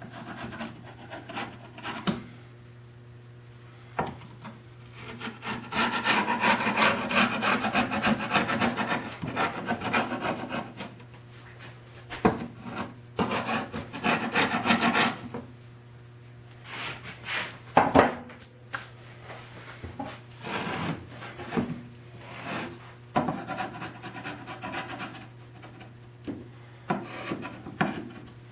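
Rubbing and scraping on the wooden machinist chest, in stretches of a few seconds, the longest a little after five seconds in, with scattered knocks and clicks from handling the wood. A steady low hum runs underneath.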